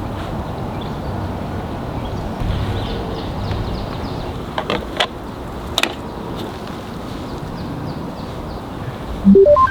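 Steady background noise with a few sharp clicks or knocks midway, then near the end a quick rising run of four or five short electronic beeps.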